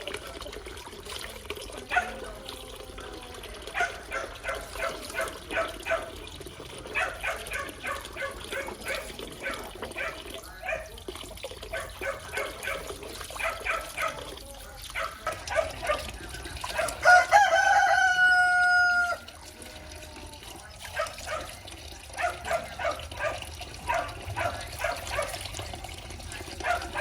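Chickens clucking in quick repeated notes, and about seventeen seconds in a rooster crows once, a long call of about two seconds that is the loudest sound.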